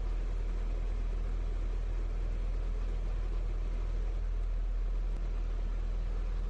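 Steady low mechanical rumble, even and unchanging.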